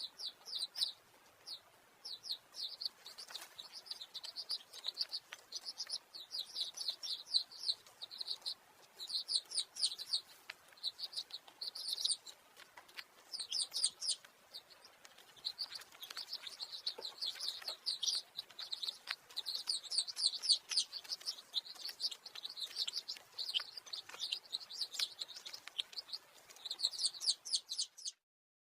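Chinese sparrowhawk calling: rapid runs of high, downward-slurred notes in bouts with short pauses between them, cutting off suddenly near the end.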